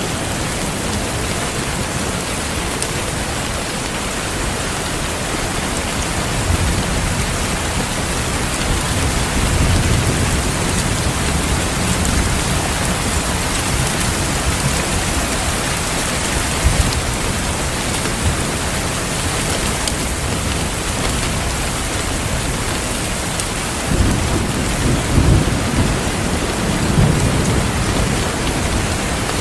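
Steady heavy rain with rolling thunder: low rumbles swell from about six seconds in, and again in a cluster of rumbles near the end.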